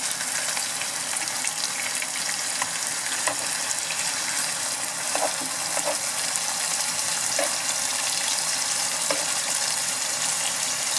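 Marinated chicken pieces shallow-frying in hot oil, a steady high sizzle. A few light spoon taps and scrapes against the pan come through as the pieces are turned over to fry the second side.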